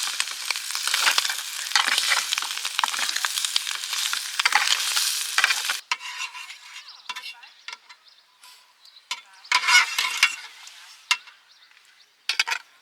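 Food sizzling and crackling as it fries in a pan, stopping abruptly about six seconds in. Scattered scrapes and clinks of stirring follow, with a short louder burst near the end.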